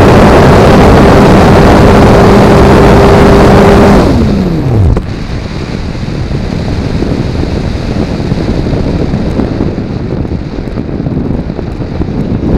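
Multiplex Blizzard RC plane's electric motor and propeller running at steady full power over loud wind rush. About four seconds in the motor is throttled off and its pitch falls away within a second. After that, only the rush of air past the onboard camera is heard as the plane glides.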